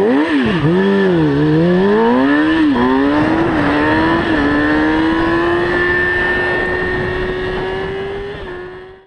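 Motorcycle engine revving up and down a few times, then holding a long, slowly rising note as it accelerates. It fades out near the end.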